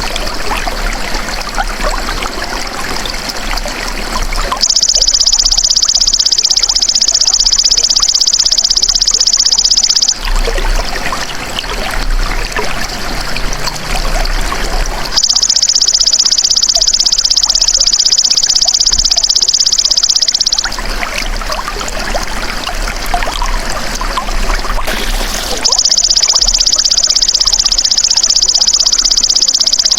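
Belalang emas (golden grasshopper) singing insect giving a loud, steady high buzz three times, each about five and a half seconds long and about ten seconds apart. Between the buzzes, water trickles.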